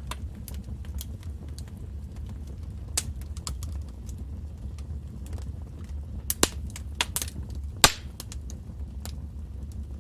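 Wood fire crackling in a fireplace: scattered sharp pops and snaps over a steady low rumble of flame, with a few louder pops about two thirds of the way through.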